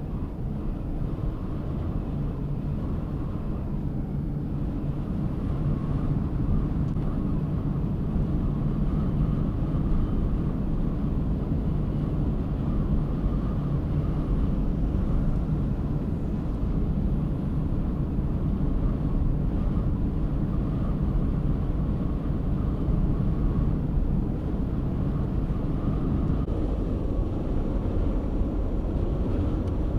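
Steady road and engine rumble of a vehicle driving on the highway, getting a little louder over the first few seconds and then holding even.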